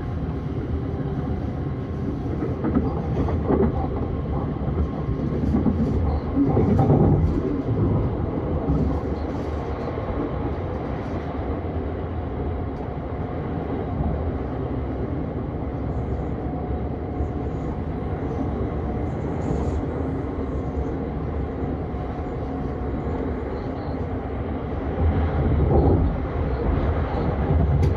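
Vienna S-Bahn electric commuter train running along the line: a steady rumble of wheels on rail, swelling louder about 3 and 7 seconds in and again near the end.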